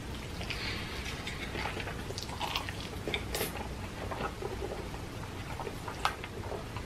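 A person chewing a big mouthful of sauce-covered french fries, with scattered small mouth clicks throughout.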